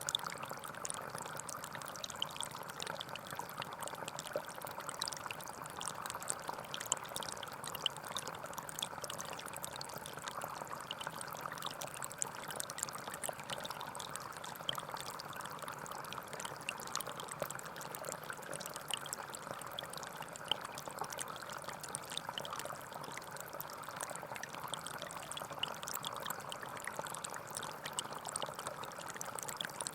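Forest stream flowing and trickling over rocks in a steady, even rush of water, with small splashes throughout.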